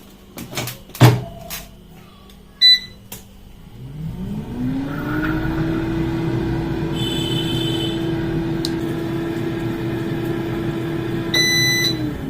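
Havells air fryer: the basket knocks into place and the panel beeps once, then the fan motor spins up with a rising whine and settles into a steady hum. Near the end it beeps again and the fan starts winding down.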